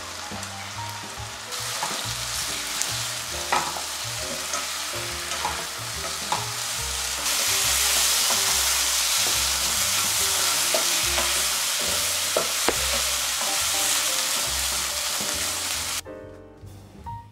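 Chicken drumettes sizzling as they are stir-fried in a soy-sauce glaze in a nonstick frying pan, with occasional clacks of a wooden spatula against the pan. The sizzle gets louder twice as the sauce cooks down, then cuts off near the end, giving way to jazz music.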